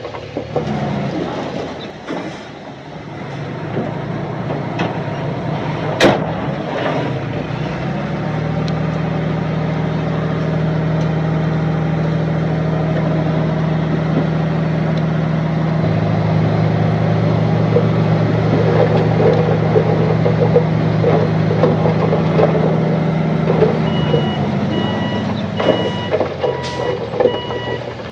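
Heavy construction machine's diesel engine running steadily under load, with a sharp clank about a fifth of the way in. Near the end a reversing alarm starts beeping in a regular on-off pattern.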